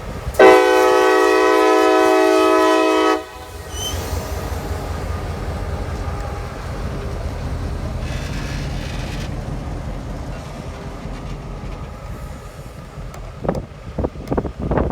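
Locomotive air horn sounding one long multi-note blast of about three seconds, then the low steady rumble of a train running past, with a few sharp knocks near the end.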